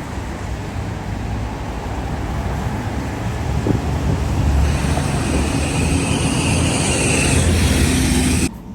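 Street traffic noise with a low rumble that grows louder as a vehicle comes close, joined about halfway through by a hiss of tyres on a wet road. It cuts off abruptly near the end.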